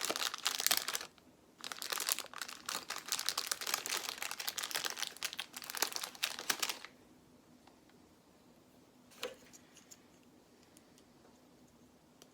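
Plastic crinkling and small clicks of Lego pieces being handled and sorted, for about seven seconds with a short pause about a second in. Then it goes quiet, with one small click a little past nine seconds.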